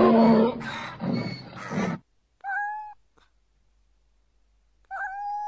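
A cat meowing loudly several times in quick succession, followed by two short, high, thin calls of steady pitch, the second held a little longer.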